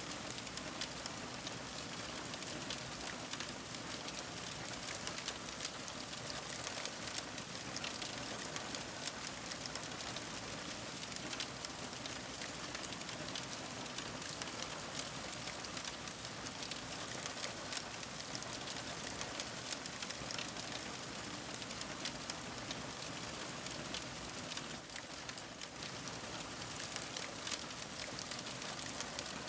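Fire crackling steadily: a dense, even run of small pops and snaps over a soft hiss.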